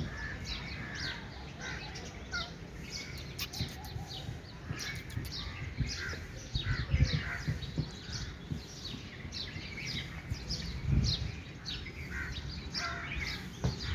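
Small birds chirping: many short, quick, falling chirps, one after another. A couple of low thumps stand out, about seven seconds in and again near eleven seconds.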